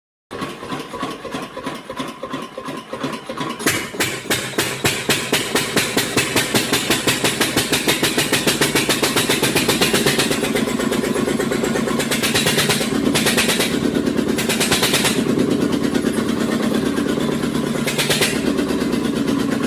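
A 14 hp engine running up to speed: separate firing pulses that come faster and louder over the first ten seconds, then settle into steady running. A few short bursts of hissing noise come through in the second half.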